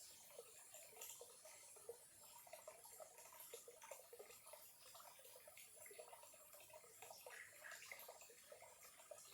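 Small stream trickling faintly, with many irregular little plinks and gurgles of water.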